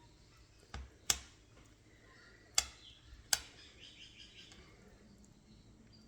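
Four sharp clicks and knocks, the sound of a hand-feeding syringe and food container being handled and made ready, the second pair louder than the first.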